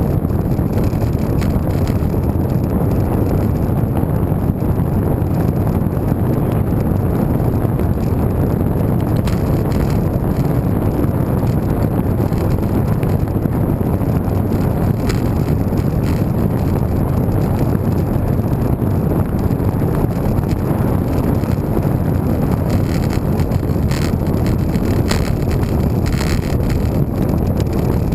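Steady wind rushing over the microphone of a moving road bicycle, with the bike's rolling noise underneath and a few sharp clicks near the end.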